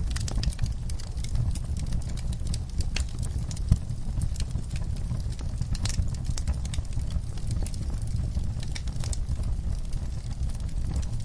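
Log fire burning in a fireplace: a steady low rumble of flame with irregular sharp crackles and pops from the burning wood, one pop louder than the rest a little under four seconds in.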